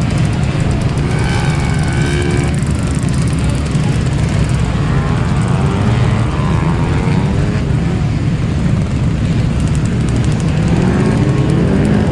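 Car engines running hard under a loud, steady rumble, with engine pitch rising as they rev and accelerate, twice: once through the middle and again near the end.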